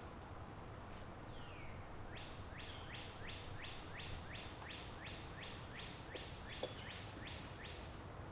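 A bird calling a long run of identical falling notes, about three a second, with a few short high chips mixed in.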